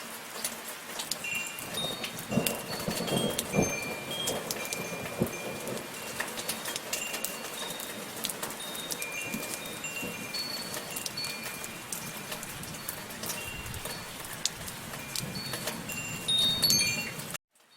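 Wind chimes ring scattered, clear high notes over the steady hiss of falling rain. Just before the end, a louder moment is followed by a brief total dropout of the sound.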